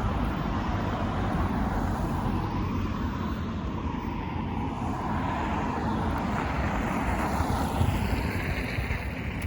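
Steady rush of motor-vehicle noise passing by, its pitch sweeping as the vehicles go past near the end.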